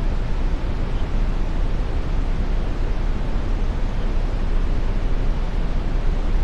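Steady brown noise: an even, unbroken hiss heaviest in the deep lows and thinning toward the highs.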